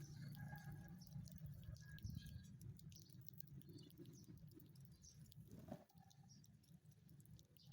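Very faint sparrow chirps and scattered small clicks over a low steady rumble, the sound dying down toward the end.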